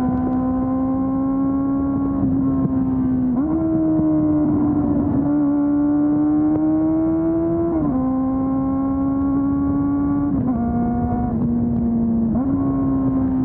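Honda CB400 Super Four's inline-four engine, through its stock exhaust, running steadily under way. Its pitch steps up about three seconds in, climbs slowly, then drops back about eight seconds in. It dips once more and comes back up near the end.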